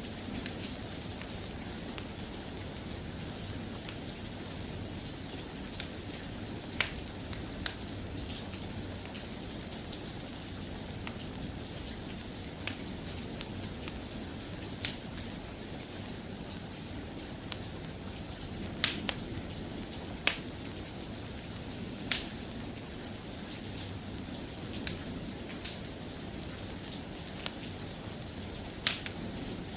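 Steady soft rain falling, an even hiss, with scattered sharp ticks every couple of seconds.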